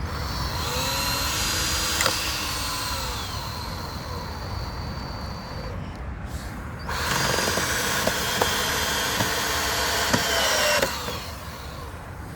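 Cordless drill driving screws into the wood of a fairground ride gate in two long runs, about five seconds and then four seconds, its motor whine rising and dipping in pitch as each screw goes in.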